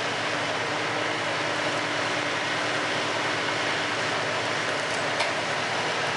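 Large stationary industrial wood chipper running steadily as it grinds logs: a loud, unbroken dense machine noise, with one short sharp knock about five seconds in.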